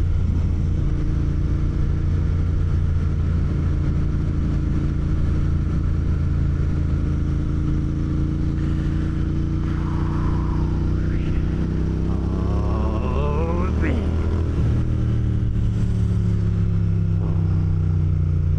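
Motorcycle engine running steadily while riding, heard from the rider's onboard camera mic; the engine pitch shifts about two-thirds of the way through as the revs change.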